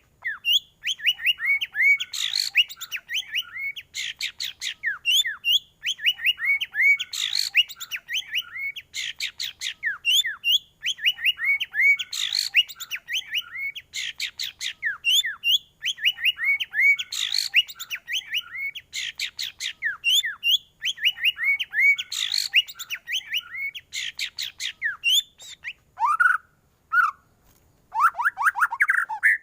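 White-rumped shama (murai batu) singing a fast, varied song of rapid high whistles and chatters, in a pattern that repeats about every five seconds. Near the end come a few lower, slower phrases.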